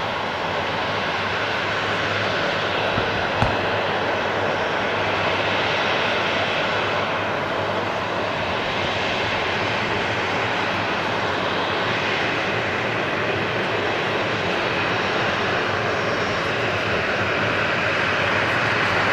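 Jet airliner engines running steadily, a continuous dense rush with slow swells in level. A single short click about three and a half seconds in.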